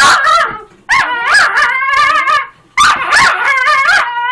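Dog barking and yipping in three loud bouts of high, wavering cries: jealous protest at another dog being near its owner.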